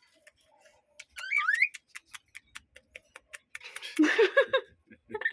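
Cockatiel whistling a short warbling phrase that rises and falls about a second in, followed by a run of quick ticks and then a louder, rougher sound about four seconds in.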